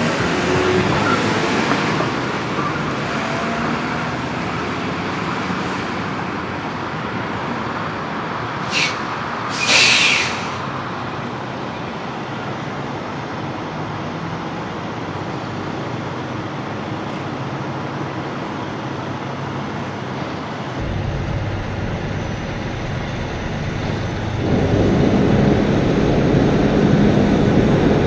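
Tractor-trailer under way, heard from the cab: steady engine and road noise, with two short hisses about nine and ten seconds in. The engine noise deepens past the two-thirds mark and grows louder near the end.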